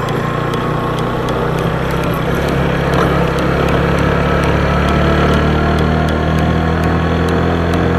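Motorcycle engine running as the bike rides along, heard from the bike itself, a little louder from about three seconds in.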